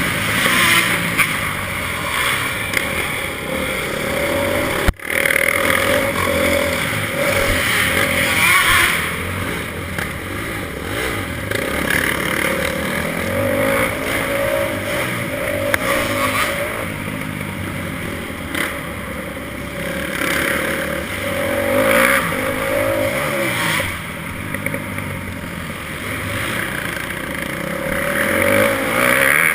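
Motocross bike engine revving up and falling back again and again as it is ridden around a dirt track. The sound cuts out for an instant about five seconds in.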